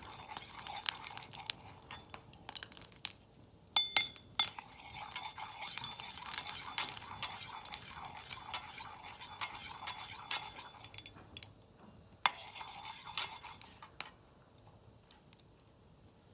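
Metal scraping and stirring in an iron wok, with sharp clinks that ring briefly about four seconds in and another clack about twelve seconds in; the scraping stops near the end.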